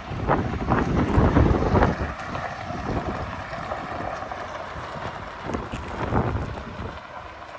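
Wind buffeting the microphone in uneven gusts, with a low rumble underneath.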